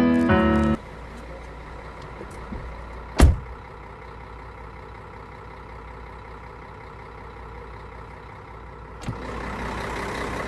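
Piano music ends about a second in, leaving a car engine idling steadily. A single sharp thump about three seconds in, and near the end a louder rushing noise joins the engine.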